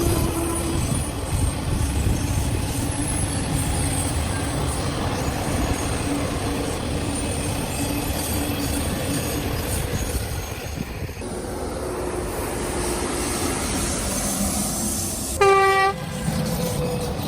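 A train rumbling and rattling along the rails. A locomotive horn gives one short blast of about half a second near the end, the loudest sound in the stretch.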